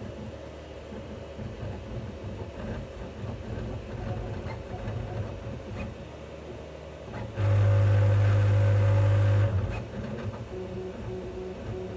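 Qidi Q2 3D printer running, its motors and fans whirring with a fluttering rattle that comes from a loose print head. In the middle a much louder steady hum sets in for about two seconds, then drops back.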